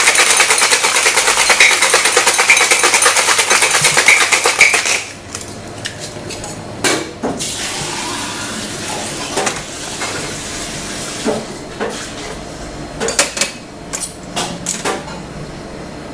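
Cocktail shaker full of ice shaken hard, a loud fast rattle of ice against the tin that stops about five seconds in. After it come scattered clinks and knocks of metal and glass.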